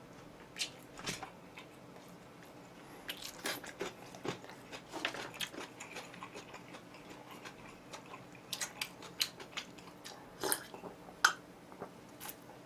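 Close-miked chewing and crunching of crispy oven-roasted chicken, with irregular short crunches and mouth sounds.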